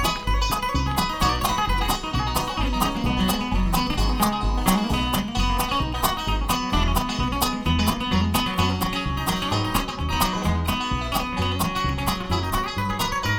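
Bluegrass band playing an instrumental tune: rapidly picked banjo and acoustic guitar over a steady low bass pulse.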